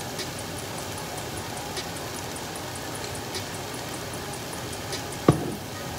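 Beef and sliced peppers and onions sizzling steadily in two frying pans on an electric stovetop, with one sharp knock about five seconds in.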